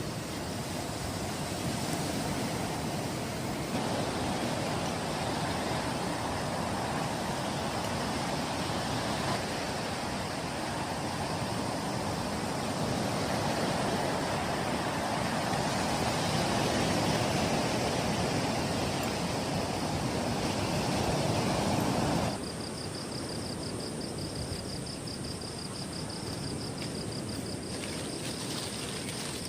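Heavy rain and strong wind, a dense, steady rushing noise. About 22 seconds in it drops away suddenly to a softer hiss, with night insects trilling in a fast, even pulse.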